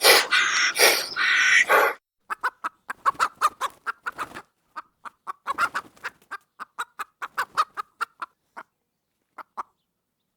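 A chicken calling: a loud, harsh squawk in the first two seconds, then a long run of short, irregular clucks that grow sparser toward the end.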